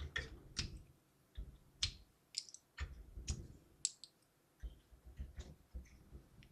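Scattered light clicks and taps, irregular and faint, from hands handling the assembled small PC case and its parts.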